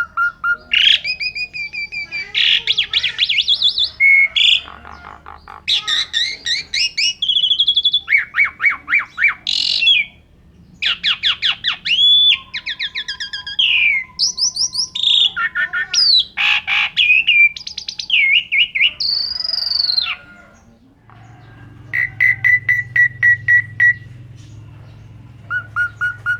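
Asian pied starling (jalak suren) singing a long, varied song: loud whistles, rapid runs of repeated chattering notes, and whistled phrases that rise and fall, with short pauses between bursts. A low steady hum sits under the last few seconds.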